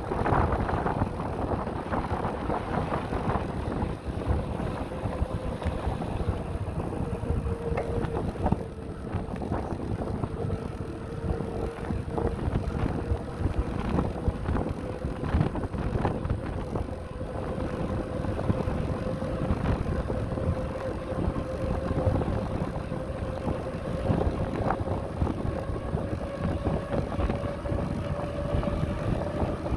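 Wind buffeting the microphone and tyre rumble from a bicycle riding over a rough path, with scattered small knocks. Under the noise runs a steady whine that slowly rises in pitch.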